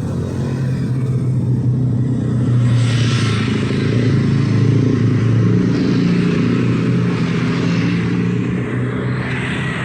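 Street traffic: motorcycle and car engines running close by, with hiss that swells as vehicles pass, about three seconds in and again near the end.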